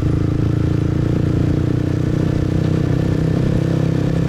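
Motorbike engine running steadily while being ridden, heard from on the bike.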